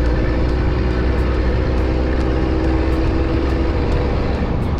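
Car on the move: steady engine hum with a low rumble and continuous road noise.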